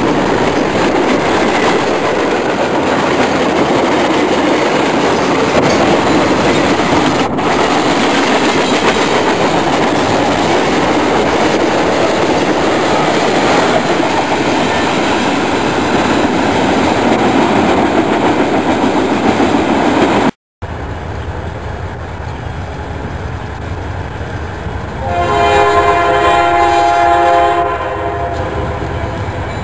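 Freight cars rolling past close by, a steady rumble with the clatter of wheels over rail joints. After a cut, a diesel freight locomotive approaches, its engine rumbling low. Its multi-chime horn sounds one long blast about 25 s in and starts again just at the end.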